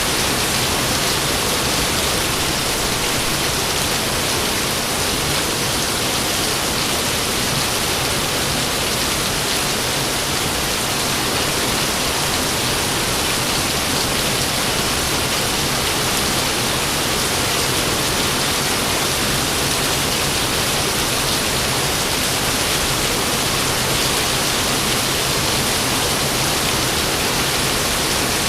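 Steady rain falling, an even, unbroken hiss with no thunderclaps.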